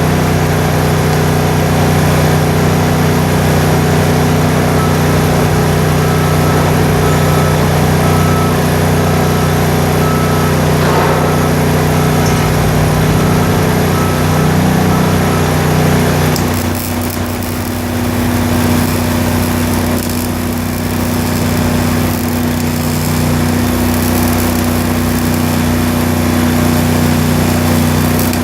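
An engine running steadily, its note changing about sixteen seconds in.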